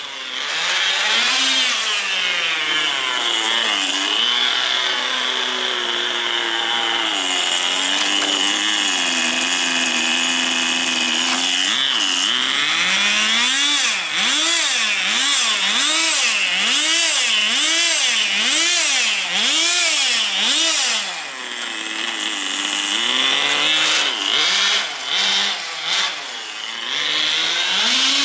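Small nitro glow engine of a Tamiya TGS 1/10 RC car running at high revs with a buzzy, chainsaw-like note. Its pitch rises and falls over and over, regularly about once a second through the middle.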